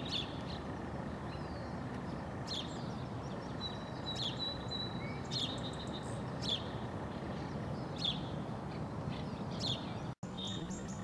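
Small birds giving short, high chirps every second or two over a steady hiss of background noise.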